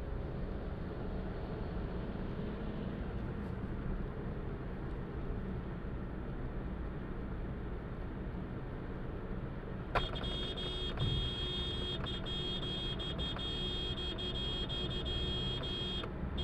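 Road and engine noise of a car in motion, as heard from a dashcam. About ten seconds in, a sharp click, and then steady high-pitched tones run on top of the road noise.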